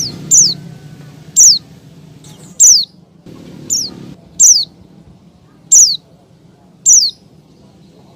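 Female white-eye (pleci) calling: short, high, down-slurred notes repeated about once a second, eight in all. This is the hen's call to males.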